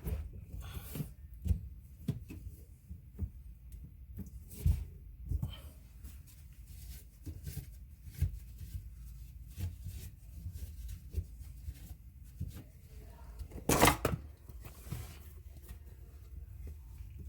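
Scattered knocks and clicks of hands working on under-sink drain parts, with one louder clatter about 14 seconds in.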